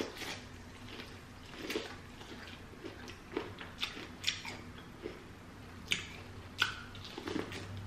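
Chewing a mouthful of corn on the cob close to the microphone, with soft wet mouth clicks and smacks about once a second.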